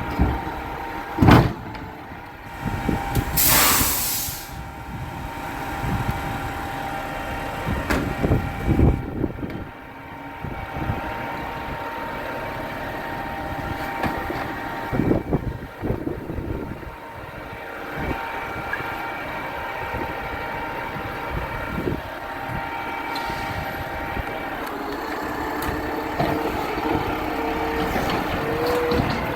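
Garbage truck's engine running steadily, with a sharp burst of air-brake hiss about three to four seconds in and several clunks and bangs scattered through.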